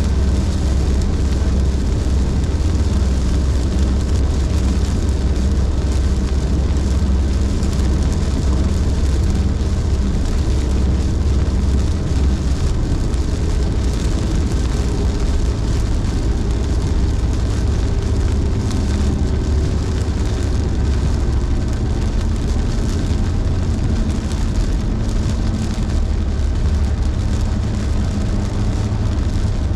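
Car cruising at highway speed on a rain-soaked road: a steady low road rumble with the hiss of tyres and rain on wet pavement.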